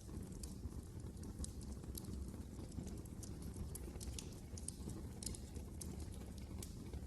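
Wood fire crackling in a fireplace: a steady low rumble of burning with irregular sharp pops and snaps, several a second.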